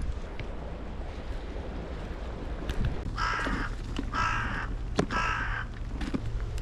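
A crow cawing three times in quick succession, each caw about half a second long, starting a little over three seconds in.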